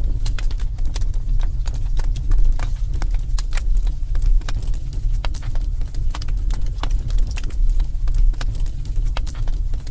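Wood fire burning in a fireplace: a steady low rumble of flame under irregular sharp crackles and pops, several a second.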